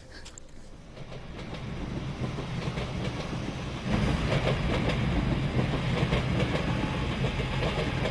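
Passenger train passing, its wheels rumbling and clattering on the rails. It grows louder through the first seconds and jumps up about four seconds in.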